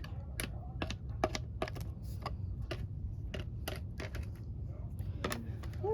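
A series of light, sharp taps, about two or three a second and somewhat uneven, over a steady low rumble.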